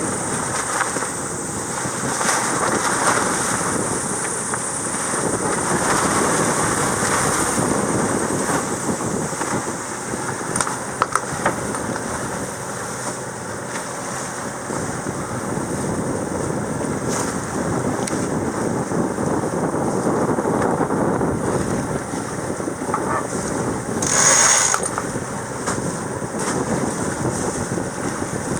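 Wind blowing over the microphone and sea water rushing along a sailboat's hull under way: a steady, uneven rush. A few sharp clicks come about ten seconds in, and a brief louder hiss near the end.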